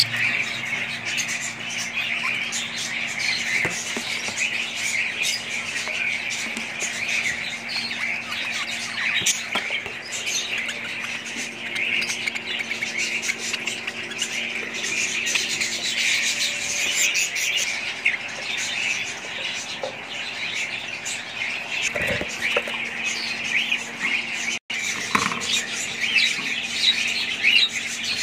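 A flock of budgerigars chattering and chirping continuously, with a steady low hum underneath.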